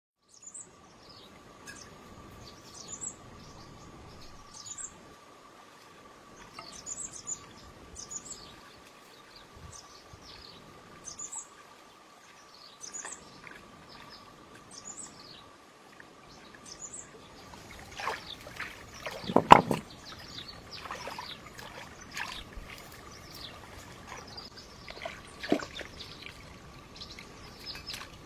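Birds chirping, short high calls repeating every second or two, over a steady thin tone. About two-thirds of the way through, clattering and knocking begins, with one loud thump.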